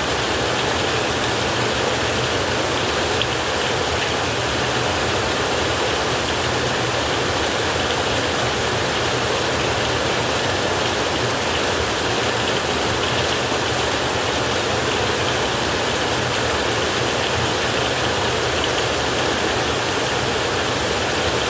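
Steady rain falling, an even hiss with no break and no thunder.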